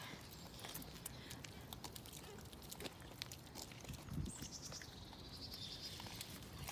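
Deer chewing carrots and apples, a faint scatter of small crunching clicks. About four seconds in comes a soft thump, then a short high trill that falls in pitch.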